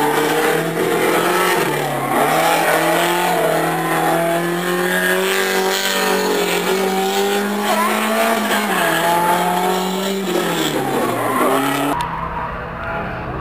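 Fiat 125p's 2.0 DOHC engine running hard at high revs as the car is driven through the corners, its note holding high, dipping briefly and climbing again near the end. The sound turns duller in the last second or so.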